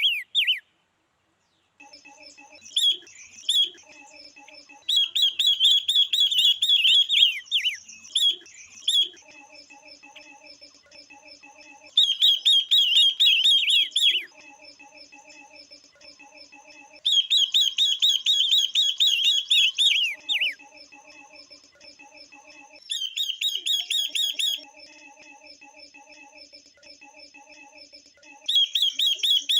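Caged female silver-eared mesia and red-billed leiothrix calling: five loud bouts of rapid, chattering notes, each note falling in pitch. Between the bouts runs a quieter, low, repeated pulsing call.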